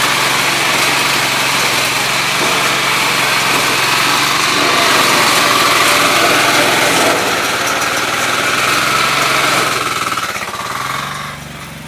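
An engine-driven machine running steadily, with a dense rattling clatter over the engine hum; it becomes much quieter near the end.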